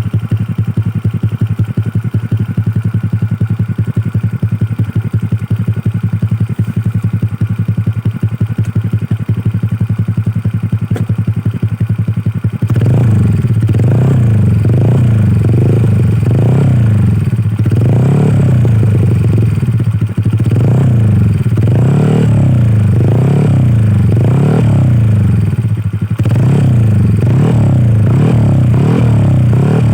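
150cc automatic scooter running through a round Lone Rider CMMS aftermarket silencer: steady idle, then from a little under halfway through, revved over and over in quick throttle blips, each rising and falling.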